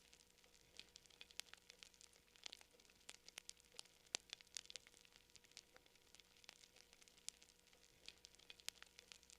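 Campfire crackling: quiet, irregular snaps and pops of burning wood, with one louder pop about four seconds in.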